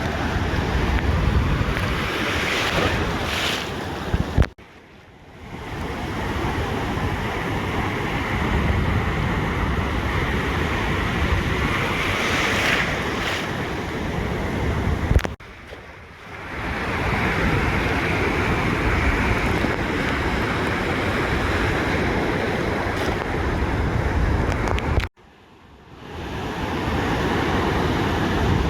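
Ocean surf washing on a beach, with wind buffeting the microphone. The sound drops out sharply three times, about ten seconds apart, each time after a brief bump, and comes back within about a second.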